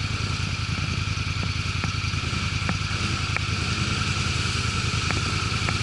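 ATV engine running at a steady, low speed, with a few light clicks or knocks scattered through.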